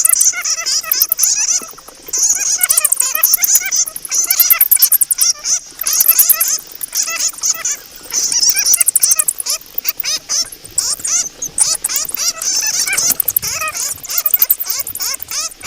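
Many bats squeaking and chattering at once: a dense run of rapid, overlapping high chirps, with short lulls every few seconds.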